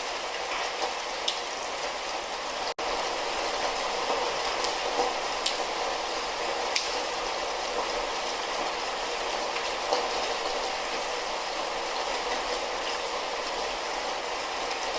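Light rain falling steadily, an even hiss with occasional sharp ticks of single drops. The sound drops out for a split second about three seconds in.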